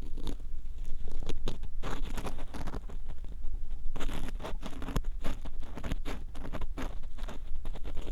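Ear pick scraping and rubbing inside the ear of a binaural 3Dio microphone, close up: irregular, scratchy strokes come several times a second.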